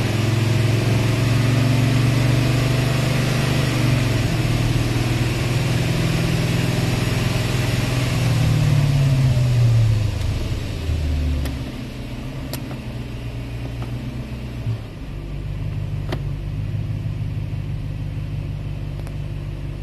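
BMW 740iA V8 engine and road noise heard from inside the cabin, cruising at about 100 km/h; about ten seconds in the engine note falls and quietens as the car slows, leaving a lower, steady running near idle with a few light clicks.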